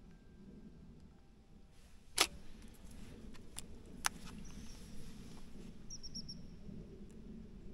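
Quiet outdoor background with a steady low rumble, broken by a few sharp clicks (the loudest about two seconds in) and a short run of thin, high chirps about six seconds in.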